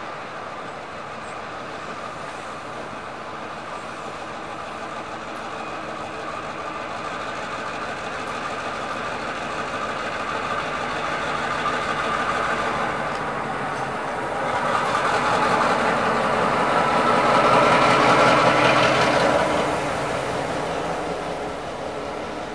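Passenger train shoved slowly past by diesel locomotives at its rear: rolling coaches, then the locomotives' engines running close by, growing louder to a peak about three quarters through and easing near the end.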